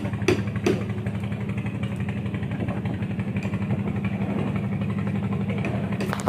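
Small engine running steadily at an even speed, with two sharp knocks in the first second.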